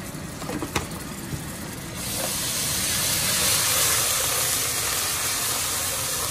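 Chopped onion and garlic paste sizzling in hot oil in a pot as a wooden spoon stirs it, the sizzle growing louder about two seconds in. A light knock about a second in.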